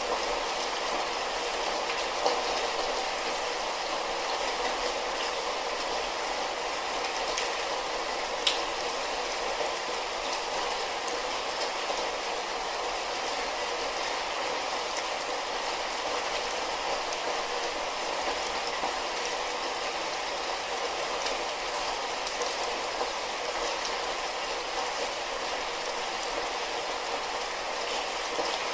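Light rain falling steadily, an even patter with a few sharper drop ticks now and then.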